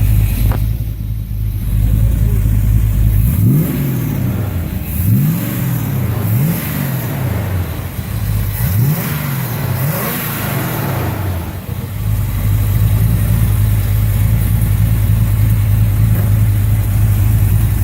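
Car engine idling, then revved in about five quick blips, each rising and falling in pitch, before settling back to a steady idle.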